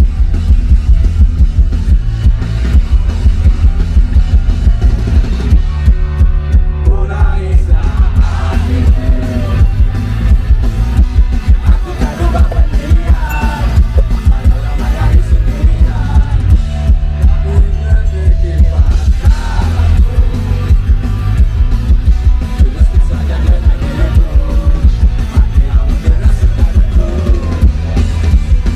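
Loud live rock band music with heavy, pulsing bass and drums; a melodic line joins about eight seconds in.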